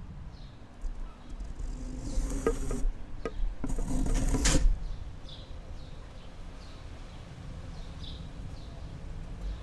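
Outdoor ambience: a steady low wind rumble under a bird giving short high chirps about once a second. In the middle come two loud buzzing bursts of about a second each, like an insect flying close past the microphone.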